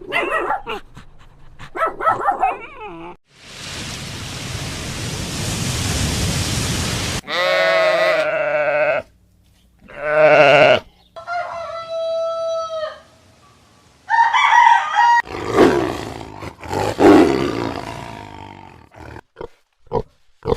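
A string of different farm and domestic animal calls, one short clip after another, each starting and stopping abruptly. Between them are pitched calls and a long, even hiss-like noise of about four seconds.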